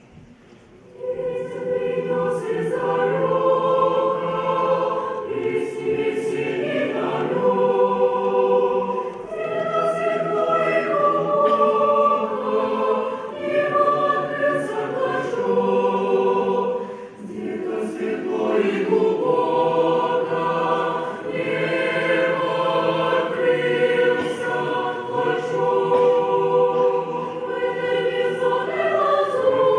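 Mixed choir singing a slow choral song, many voices holding and shifting sustained chords, entering about a second in.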